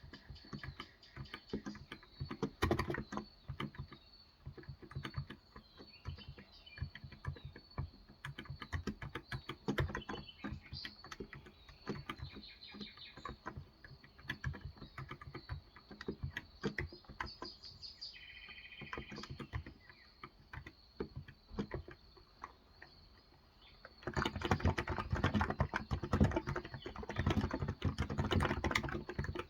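Typing on a Cox Endeavor tenkeyless keyboard with 35 g electro-capacitive (non-contact) switches. The keystrokes come in scattered bursts, then turn into fast, steady typing about 24 seconds in. Birds chirp briefly in the background a little before and after halfway.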